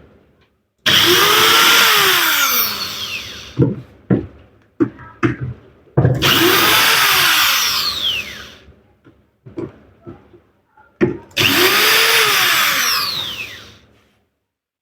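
A handheld power tool run in three bursts of two to three seconds each, its pitch rising and then falling away as the motor spins up and runs down. Short knocks of parts being handled fall in the gaps.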